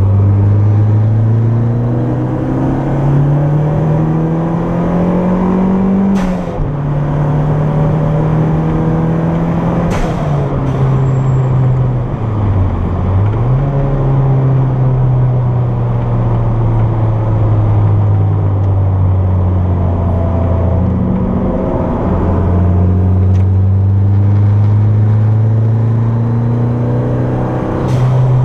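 Turbocharged Toyota MR2 engine heard from inside the car at speed on track, its pitch climbing under acceleration and falling sharply at gear changes, about six and ten seconds in. It dips briefly near thirteen seconds, then climbs steadily again. A few sharp clicks occur along the way.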